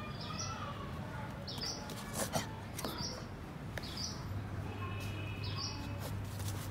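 A bird giving a short, high chirp over and over, about six times at roughly one-to-one-and-a-half-second intervals. A couple of sharp knocks come a little after two seconds in.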